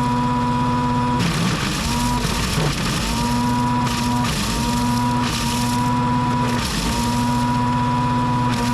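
Chainsaw engine running at high revs with a steady high pitch, which dips briefly and recovers several times.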